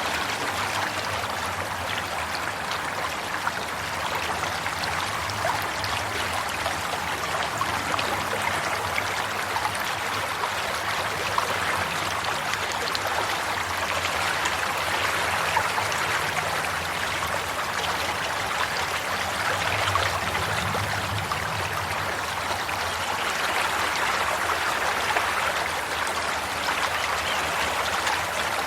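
Water running and trickling like a stream, a steady rush with many small splashes and gurgles that swells and eases slowly.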